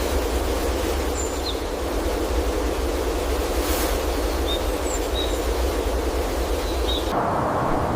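Steady outdoor background noise with a low rumble, like wind on the microphone, and a few short, faint high chirps. The noise changes abruptly about seven seconds in.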